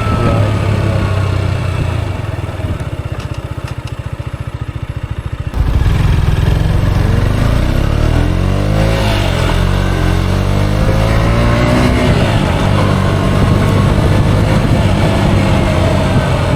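Motorcycle engine running, quieter for a few seconds, then suddenly louder about five and a half seconds in, its pitch rising and falling as the revs change.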